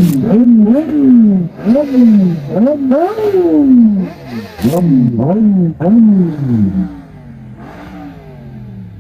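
Kawasaki ZX-10R's inline-four engine with an SC-Project exhaust, revved in quick repeated blips, about ten in seven seconds, each rise in pitch falling straight back, with two short sharp cracks among them. The revving stops near the end, leaving a much quieter low engine sound.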